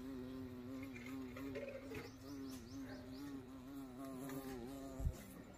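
A flying insect buzzing close by: a steady hum that wavers slightly in pitch and stops shortly before the end. A short knock sounds about five seconds in.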